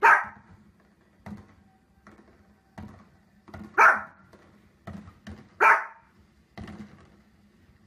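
A dog barking: three loud single barks spaced about two seconds apart, with fainter short sounds between them.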